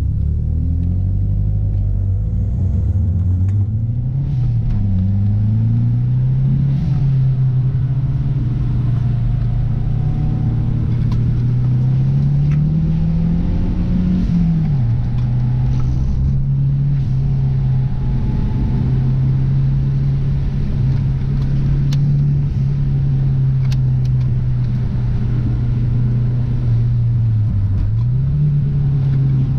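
Four-cylinder car engine and road rumble while driving. The engine pitch climbs around four seconds in and again up to about fourteen seconds in, then drops sharply and holds steady, with a brief dip and recovery near the end.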